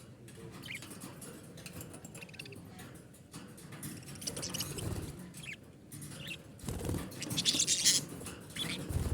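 Pet budgerigars chirping and chattering in short, scattered calls, with light rustling and bumps. A louder scratchy rustle comes about seven and a half seconds in.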